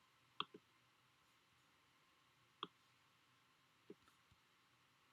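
Near silence broken by a few faint computer mouse clicks: a quick pair about half a second in, one more in the middle, and a couple near the end.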